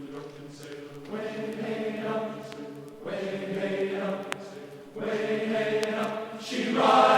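Background music of many voices singing together in long held chords, which change about every two seconds and grow louder near the end.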